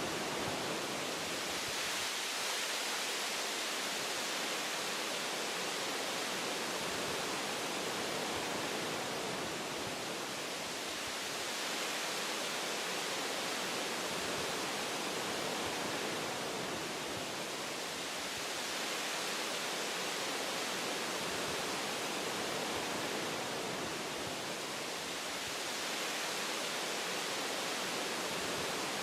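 Wind blowing through forest tree branches: a steady rushing hiss of leaves and boughs that swells and eases gently every several seconds.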